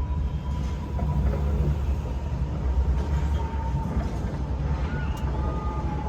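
Sky ride gondola coming into its station: a steady low rumble with a faint, thin, steady whine over it.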